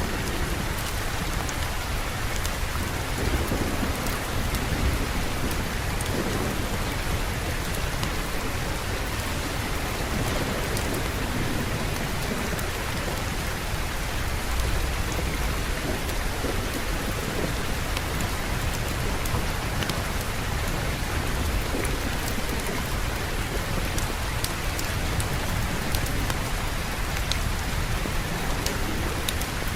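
Steady heavy rain with a continuous low rumble of distant thunder underneath, and scattered light ticks throughout.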